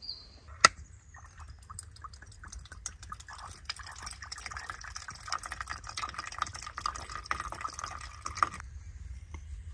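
Liquid pouring and trickling into a container, a dense run of small splashes lasting about seven seconds that stops abruptly near the end, after one sharp click a little after the start.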